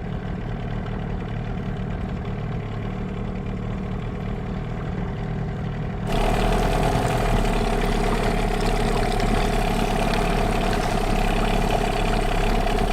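Boat outboard motor running steadily at low trolling speed. About six seconds in, the sound jumps abruptly to a louder, fuller drone with a stronger steady hum.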